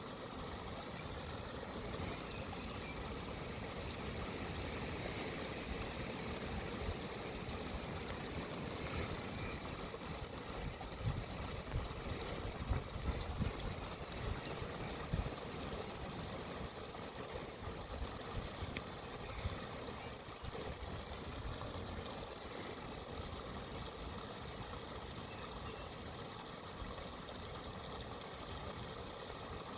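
Steady rush of a flowing stream, with stronger low rumbles for a few seconds in the middle.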